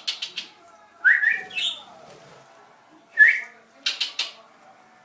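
Pet budgerigars calling: short rising whistled chirps, about four of them, mixed with quick clicking chatter near the start and about four seconds in.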